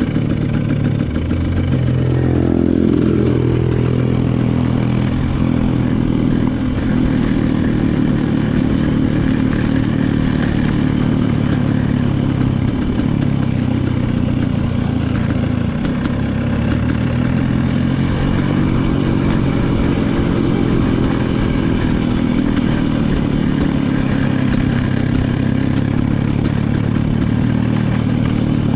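Dirt bike engine running and pulling away at low speed, its pitch rising and falling with the throttle, with a clear rev-up about two to four seconds in.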